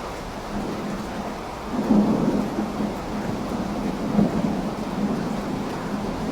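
Steady rain falling, with a low rumble of thunder rolling in about two seconds in and swelling again a couple of seconds later.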